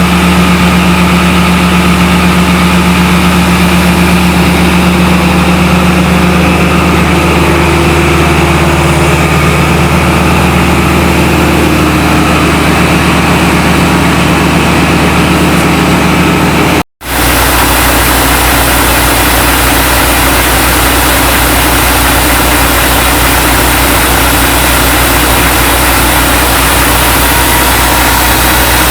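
Diesel engine on a vacuum excavation truck idling steadily. About two thirds of the way through, the sound cuts off for an instant and comes back as a deeper, heavier engine rumble.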